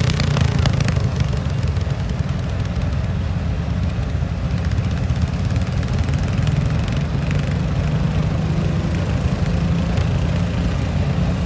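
A large engine running steadily, mostly low-pitched, with no clear revving up or down.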